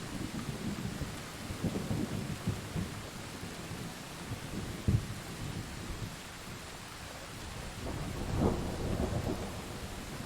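Steady rain with low rolling thunder rumbling underneath. A short, sharp jolt of thunder comes about halfway, and the rumble swells again near the end.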